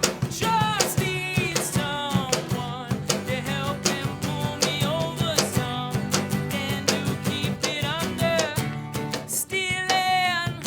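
Live band playing a song: a lead vocal sung over guitars and a drum kit.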